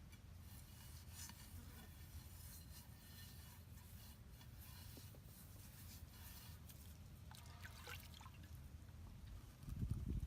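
Faint trickling and dripping water with scattered small clicks over a low steady rumble, and a low thump near the end.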